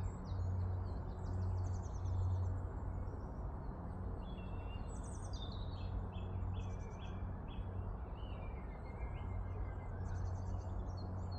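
Small birds chirping and trilling in short repeated phrases over a steady low hum and a faint haze of outdoor noise.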